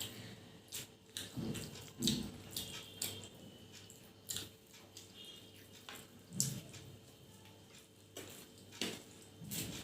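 People eating, with scattered soft wet clicks and smacks of chewing and of fingers on the plate, irregular and brief.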